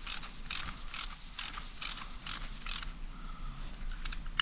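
Ratchet wrench clicking in steady strokes, about three a second, working the fire hydrant's bolts; the strokes stop about three seconds in, and a few lighter clicks follow near the end.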